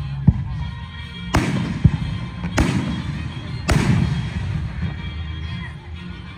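Aerial fireworks bursting: three loud booms about a second apart, each trailing off in an echo, with a couple of shorter, sharper thumps between them. Music plays underneath.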